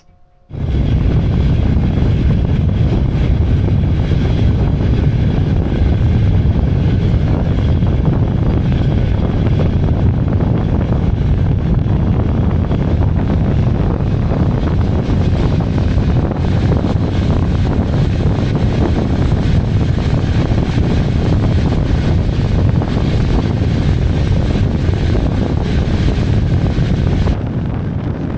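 Night train running at speed: a steady, loud rumble from the wheels and running gear with rushing air over it. It turns a little quieter and duller near the end.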